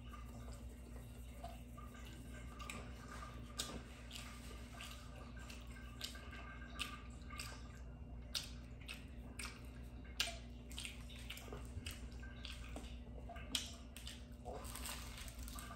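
Close-miked eating sounds: irregular wet clicks and smacks of chewing and slurping spicy noodles, over a steady low hum.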